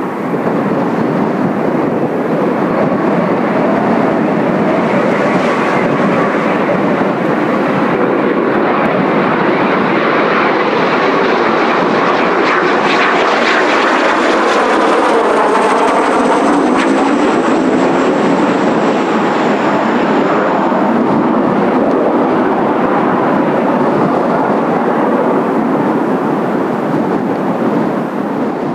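Kawasaki T-4 jet trainers' turbofan engines running loud and steady. Midway, a high whine slowly falls in pitch.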